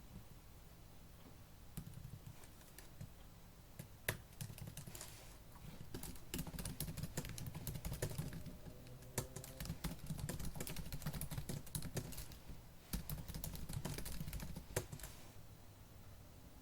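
Fast typing on a laptop keyboard. A few scattered keystrokes come first, then a dense run of rapid clicking keystrokes from about six seconds in, with a few louder single key strikes. It thins out near the end.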